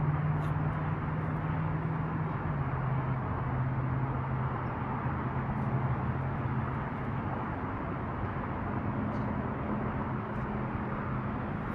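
A steady engine drone under outdoor noise; its pitch drops a little a few seconds in.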